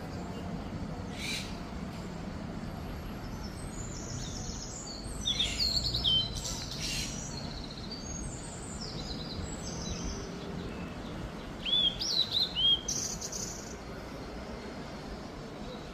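Parrots calling: shrill squawks and short hooked chirps in clusters, loudest around five to seven seconds in and again around twelve to thirteen seconds in, over a steady low background hum.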